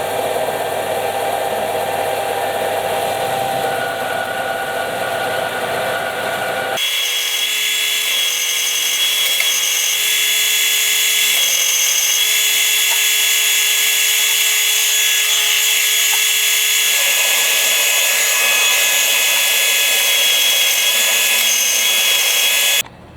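Ryobi RBDS4601G belt and disc sander running with work held against the belt. About seven seconds in, the sound changes abruptly to a steadier, higher whine, as the run with the dust extractor running takes over. The sound cuts off suddenly near the end.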